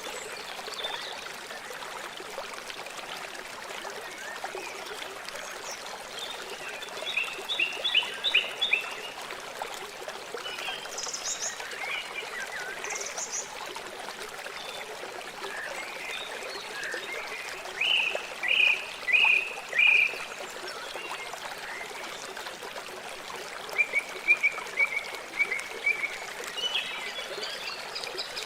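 River water flowing with a steady rush, and birds calling over it. The calls come in three quick runs of repeated chirps, the loudest sounds here, with two short high calls in between.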